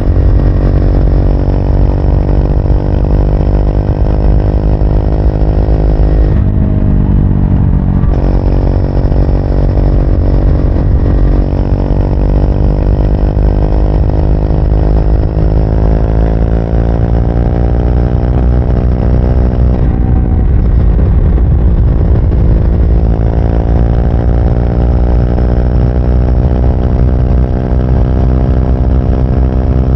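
Triumph Speed 400's single-cylinder engine under way, its pitch climbing steadily as the bike accelerates. It drops sharply at an upshift about six seconds in and again about twenty seconds in, then climbs again.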